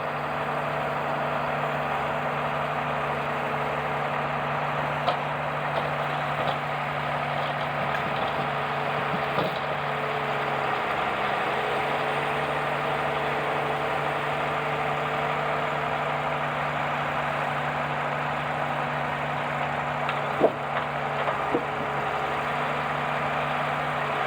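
Heavy diesel engine idling steadily, with a few sharp knocks scattered through it; the loudest knock comes about twenty seconds in.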